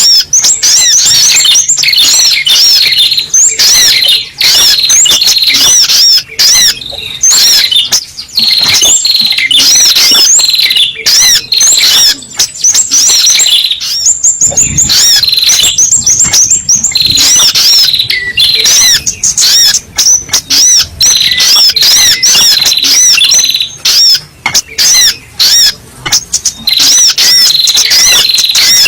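Spiderhunter (sogok ontong) lure call: a loud, continuous stream of rapid, high-pitched chirping notes with only short breaks.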